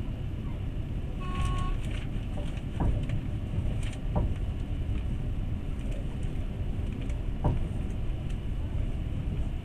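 Passenger train in motion, heard from on board: a steady low rumble with a few sharp knocks from the wheels and track. A brief high tone sounds about a second in.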